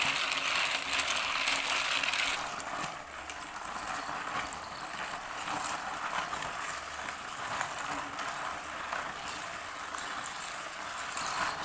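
A tin can of chocolate mix being turned by hand in a bucket of ice cubes and salt, the ice shifting against the metal as the mix is churned to freeze it into ice cream. Louder for the first two seconds or so, then a little quieter.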